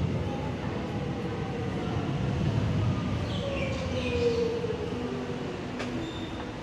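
Electric suburban train pulling into an underground platform: a low rumble with a whine that falls in pitch as it slows, and a brief high squeal of brakes about halfway through.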